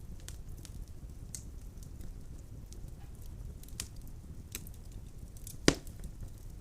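Wood fire burning in a fireplace: a low steady rumble of flames with scattered small crackles of burning logs, and one loud sharp snap near the end.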